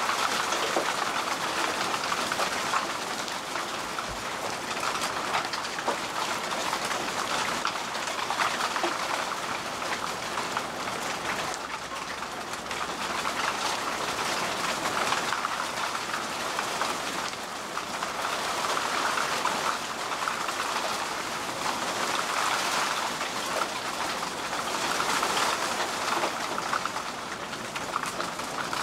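Torrential rain (Starkregen) pouring down onto a flooded street: a dense, steady hiss of downpour that gently swells and eases.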